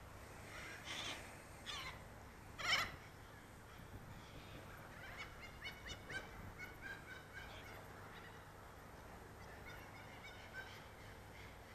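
Birds calling faintly: three calls in the first three seconds, the third the loudest, then a run of short chirping notes through the middle and latter part.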